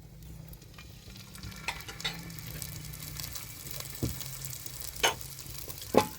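Food sizzling as it fries in a pan, with a handful of sharp knocks of a utensil against the pan, the loudest near the end.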